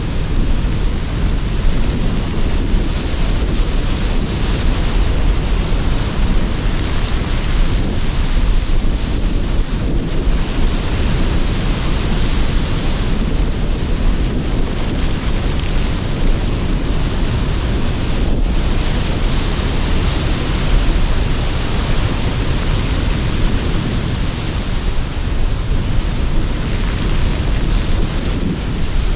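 Sea surf and strong wind blowing together: a continuous wash with a deep rumble underneath, and surges of surf that swell and fade every several seconds.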